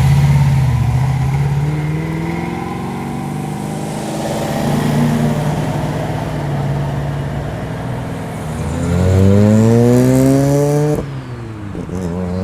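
Loud performance car engine running at a steady idle, then revving up with a rising pitch about nine seconds in as the car pulls away. The note cuts off suddenly about a second later.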